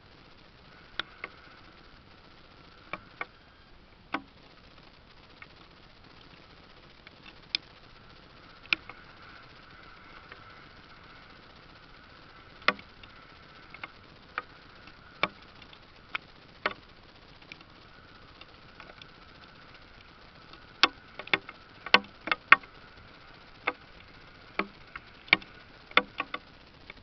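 Irregular sharp clicks and taps over a faint steady hiss, coming thicker and louder near the end.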